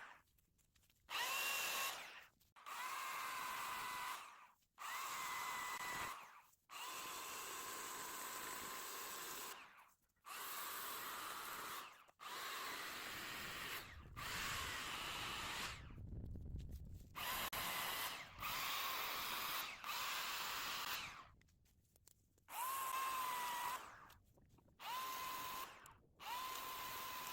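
Electric chainsaw triggered in about a dozen short bursts, its motor whining at a steady pitch and cutting off abruptly between bursts.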